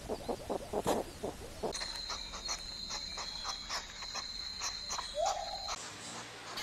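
Hedgehogs snuffling in quick short sniffs for about the first second and a half. Then a steady, high, thin whine with fast regular clicking runs for about four seconds and changes near the end.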